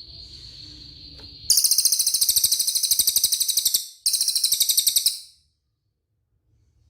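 A cililin bird singing: a thin, steady high whistle, then two loud, rapid buzzing trills, the second shorter, breaking off about five seconds in.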